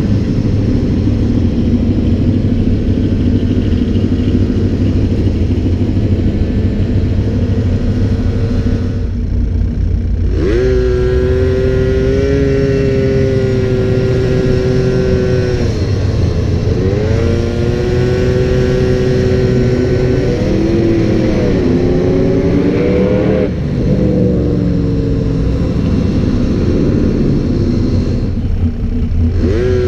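A motor vehicle engine running over a steady low rumble. About ten seconds in its pitch rises and holds level, then it dips and climbs again a few times.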